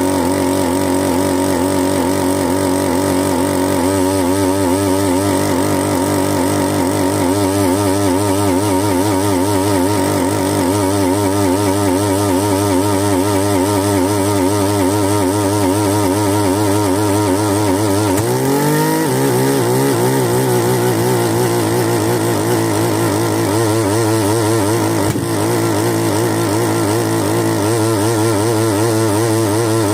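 Bernard Moteurs W14 15 HP engine running steadily, its pitch wavering slightly. About eighteen seconds in, its speed rises quickly, and it then runs on at a higher steady speed.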